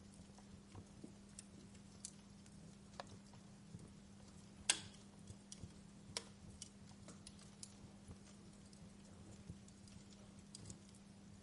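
Wood fire crackling, with sparse, irregular sharp pops and snaps and one louder pop about halfway through. A steady low hum runs underneath.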